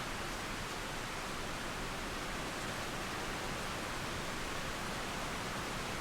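Steady rain falling, an even hiss of rain mixed with flowing water.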